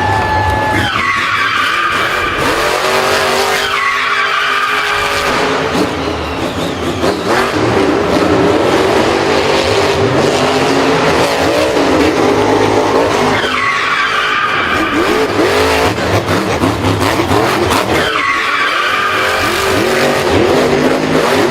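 Racing vehicle engines revving, their pitch rising and falling repeatedly, with tyres skidding.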